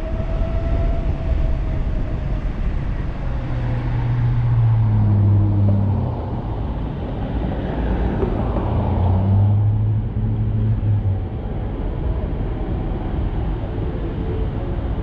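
Wind rushing over the microphone of an electric bike ridden at high speed, with a low hum that swells and fades twice.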